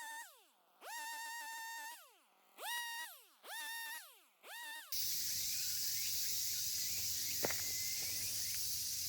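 A few electronic tones, each held and then sliding down in pitch, until about halfway through, when they cut off and give way to a steady high chorus of insects with a single click.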